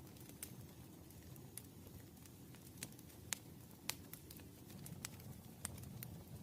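Campfire burning and crackling: scattered sharp pops, irregularly spaced, over a low steady rumble, with the loudest pops near the middle.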